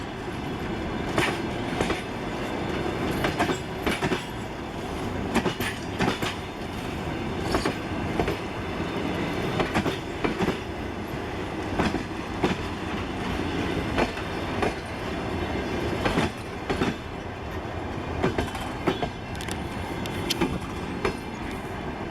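Passenger train carriages rolling past as the train pulls into the station, with a steady rumble and wheels clacking over rail joints every half second to a second, often in pairs.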